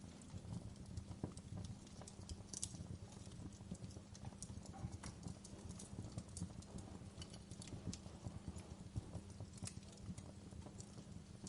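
Wood fire in a fireplace crackling, with irregular small pops over a low steady rumble of the flames. Two sharper pops stand out, one about two and a half seconds in and one near the end.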